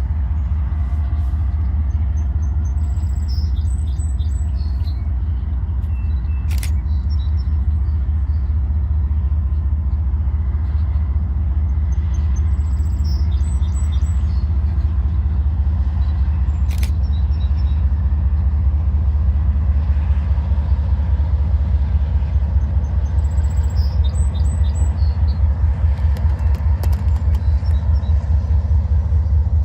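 Low, steady rumble of a diesel-hauled train, growing slightly louder and more pulsing toward the end. Birds chirp a few times over it, and there are three sharp clicks.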